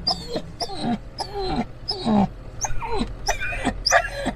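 A dog whining and yelping in a run of short cries that fall in pitch, about two a second.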